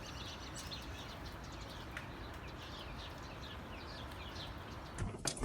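Small birds chirping over steady background hiss: many short downward-sliding chirps, several a second. A louder noise cuts in near the end.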